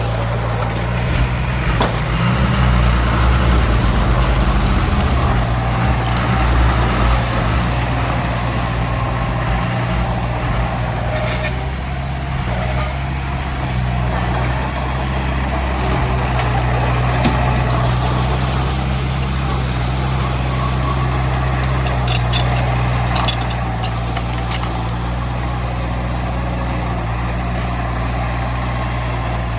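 Heavy diesel earthmoving machinery running steadily with a deep, even engine drone, with a few brief clicks about two-thirds of the way through.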